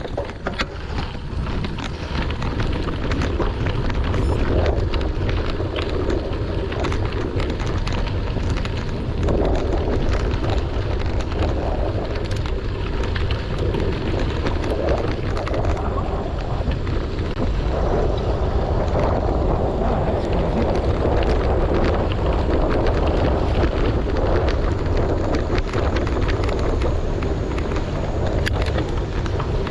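Wind buffeting the microphone with a steady low rumble, over the crunch and crackle of bicycle tyres rolling on a gravel road.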